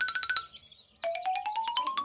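Electronic chiming sound effects: a fast run of identical bright pings cuts off, and after a short pause a quick series of plinking tones climbs steadily in pitch.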